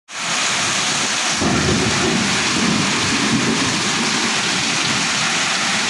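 Heavy rain pouring down steadily, with a deeper low rumble joining about a second and a half in and carrying on.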